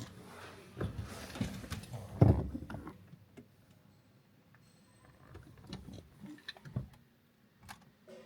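Irregular thumps, knocks and clicks of handling, loudest about two seconds in, then thinning to scattered ticks.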